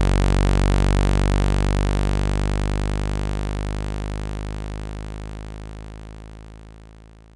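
A steady low synthetic tone with a stack of overtones, played to shake trapped water out of a phone's speaker. It fades out gradually from about two seconds in.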